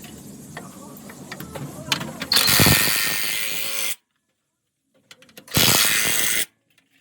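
Workshop tool noise during suspension arm bush repair: light clicks and knocks of hand tools, then two loud bursts of a power tool, each about a second or so long, with dead silence between them.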